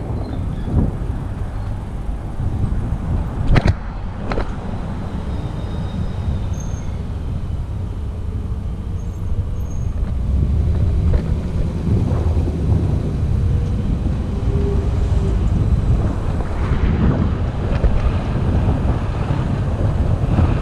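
Wind rumbling on the microphone with road noise while riding an e-bike, and one sharp click about four seconds in.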